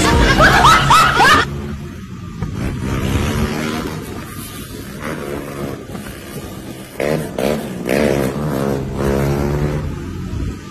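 Hip-hop music with rapping cuts off about a second and a half in. After that a motorcycle engine runs, revving up and down several times while the bike is ridden on its back wheel.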